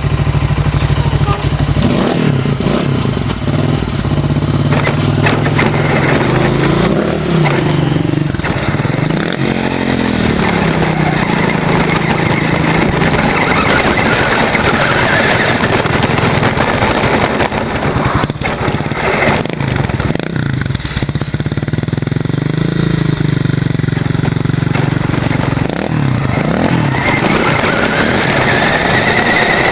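A motorcycle engine running and revving, its pitch rising and falling several times, heard close up alongside the rattle of a small R/C car carrying the camera. Near the end a high whine climbs steadily, like the R/C car's electric motor speeding up.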